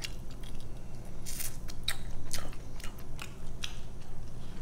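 Close-miked chewing and biting of a chicken wing: irregular sharp clicks and mouth sounds.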